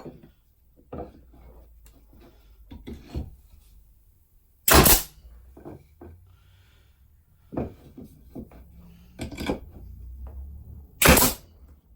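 Pneumatic denailer firing twice, each a sharp blast about half a second long, some six seconds apart, punching nails out of timber. Between the shots, lighter knocks and clatter of the tool and wood pieces being handled.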